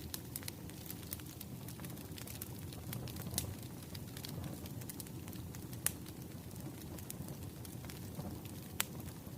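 Wood fire crackling over a low steady rumble, with a scatter of small snaps and a few louder pops.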